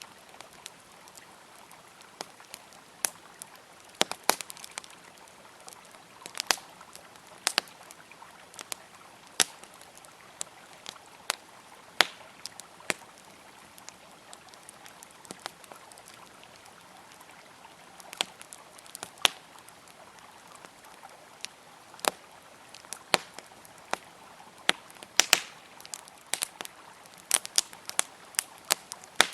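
Wood campfire crackling, with sharp irregular pops and snaps several times a second at some moments and sparser at others, over a faint steady rush of flowing river water.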